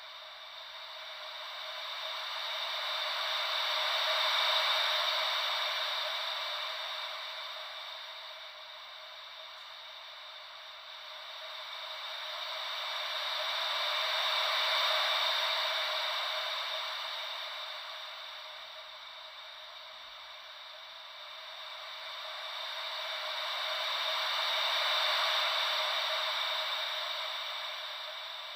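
Ocean-wave white noise: a steady hiss with no deep rumble that swells and fades slowly, about once every ten seconds, like gentle waves washing in and drawing back.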